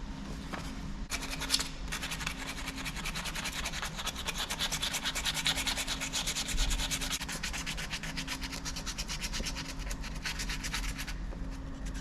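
Sandpaper rubbed by hand over a knife handle in quick, even back-and-forth strokes, a scratchy hiss that starts about a second in and stops shortly before the end.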